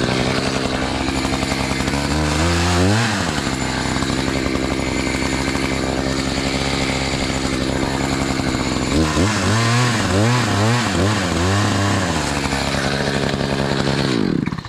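Two-stroke chainsaw running at high revs, cutting more wood out of the trunk of a tree that will not fall. The engine note dips about three seconds in and wavers up and down from about nine to twelve seconds, then the saw stops shortly before the end.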